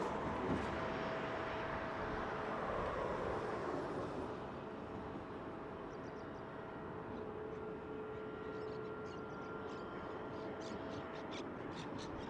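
Boeing 737-800 airliner's CFM56 jet engines heard as it passes. The noise is loudest at first and fades after about four seconds to a steadier, distant sound with faint steady whine tones.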